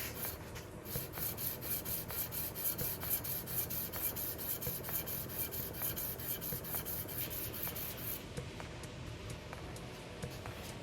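Cast-iron sole of a Luban rebate block plane being lapped flat on 400-grit abrasive over a granite stone, scraping back and forth in even strokes about three a second. The strokes ease off and turn quieter near the end.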